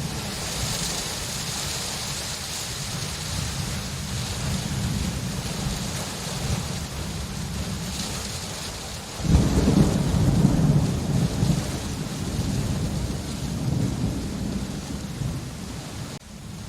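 Steady rain with a loud rumble of thunder starting suddenly a little past halfway and rolling on for several seconds.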